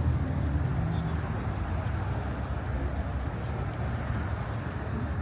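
Steady low rumble of vehicle noise from cars running at a street car show, with no clear single event.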